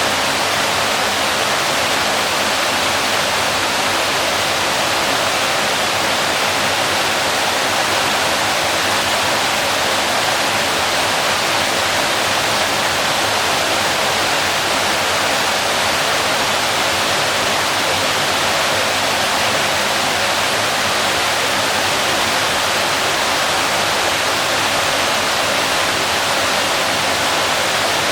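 Waterfall rushing: a loud, steady, even roar of falling water with no change.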